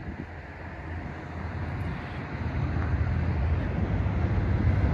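Approaching Amtrak San Joaquin push-pull passenger train, cab car leading with an EMD F59PHI diesel locomotive pushing at the rear: a low rumble that grows steadily louder as the train nears.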